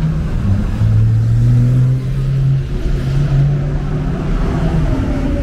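Porsche race car engine running steadily as it drives down the pit lane, a low engine note that fades about five seconds in.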